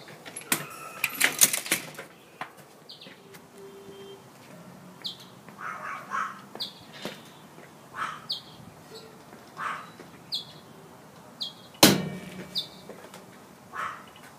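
A bird chirping over and over in short high notes, roughly once a second. A burst of knocks and rustles from the phone being handled comes near the start, and one sharp knock, the loudest sound, comes about twelve seconds in.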